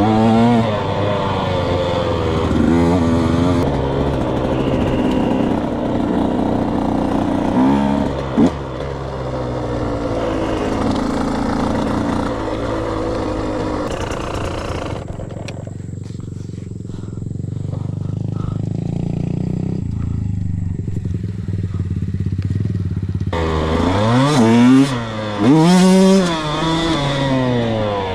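Dirt bike engine being ridden hard, its pitch rising and falling as the rider works the throttle through the gears. For several seconds past the middle the engine note turns low and muffled, then it revs up and down sharply again near the end.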